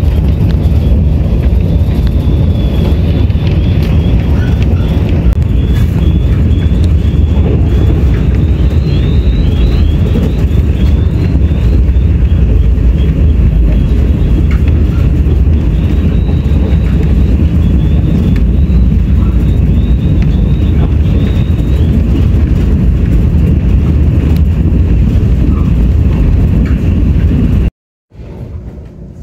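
Taiwan Railways Tze-Chiang express train running at speed, a loud steady rumble of wheels on rail, with a faint high wavering squeal over it for much of the time. The sound cuts off abruptly near the end, and a much quieter steady noise follows.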